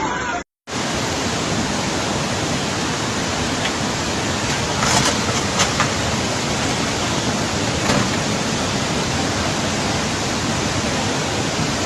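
Loud, steady rush of water, an even hiss-like roar with a few brief louder surges, cutting out for a moment about half a second in.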